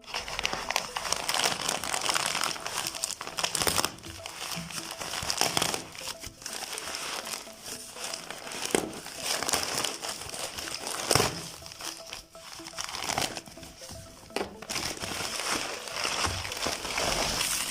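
Packaging crinkling and crackling as it is handled and unwrapped, in uneven rustles with many short crackles.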